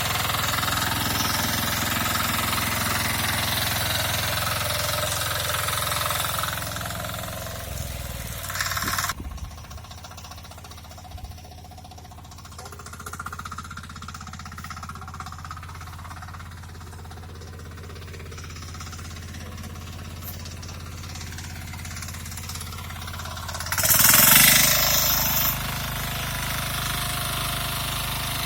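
KisanKraft KK-IC-400E power cultivator engine running hard and chugging while ploughing. About nine seconds in it drops to a quieter low idle, then about twenty-four seconds in it revs up sharply and settles back to running under load.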